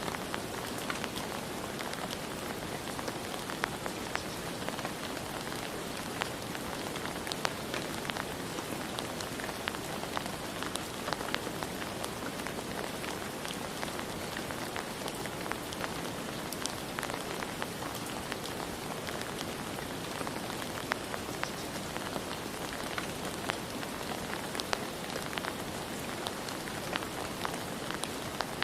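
Steady rain, with many individual drops ticking sharply against a surface.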